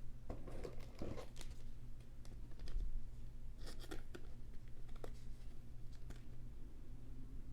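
Trading cards being handled on a table: light scraping, sliding and clicking, in small bursts about a second in and again around four seconds in, over a steady low hum.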